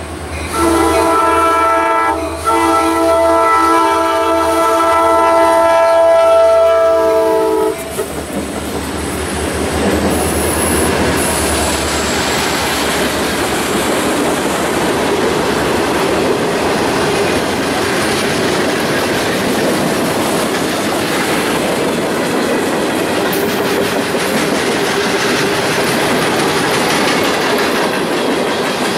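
CSX freight train's locomotive horn sounding a chord, a short blast and then a long one that stops about eight seconds in, as the locomotives pass. Then the steady rumble and clatter of the freight cars' wheels on the rails as boxcars and tank cars roll by.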